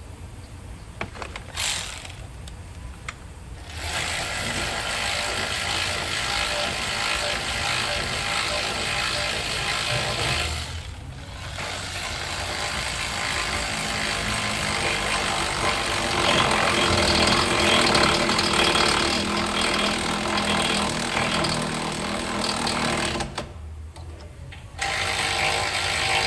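Power tool running in long stretches, with a brief stop about eleven seconds in and another near the end, typical of a mechanic's impact wrench or ratchet at work on a car's brakes.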